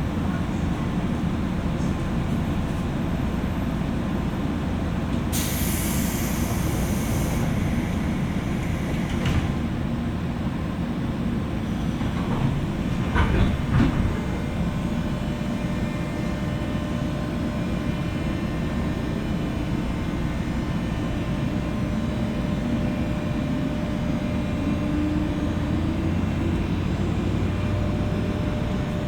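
Running noise of a JR West 201 series electric train car, heard from inside the car above its armature chopper: a steady low rumble of wheels and traction equipment. A brief hiss comes about five seconds in, and a cluster of sharp knocks a little before halfway.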